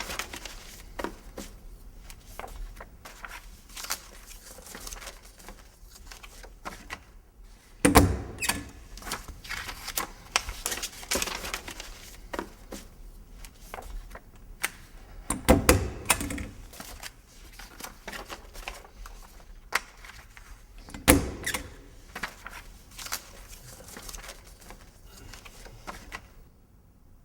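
Typing: a long run of irregular key clicks, broken by three loud thumps about eight, sixteen and twenty-one seconds in.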